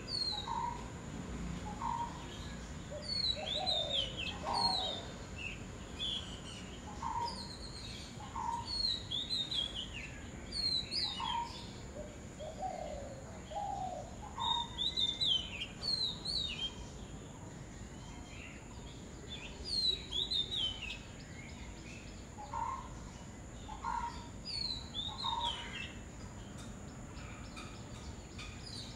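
Several birds calling: bursts of quick, high, falling chirps every few seconds, with a lower short note repeated in runs between them. The calls thin out near the end.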